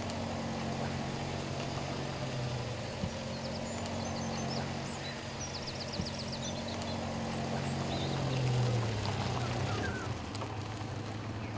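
A vintage car's engine running low and steady as the car drives slowly closer, swelling about eight seconds in and then easing. Birds chirp in quick runs midway.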